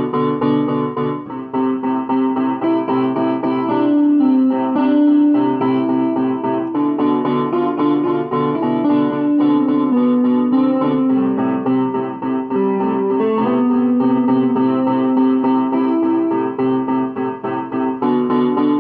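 Piano playing an original piece: a melody moving over held low notes, recorded through an Android phone's microphone.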